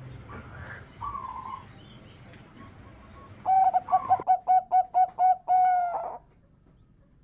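Zebra dove (perkutut) cooing: one short coo about a second in, then from about three and a half seconds a quick run of about eight short coos ending in one longer held note.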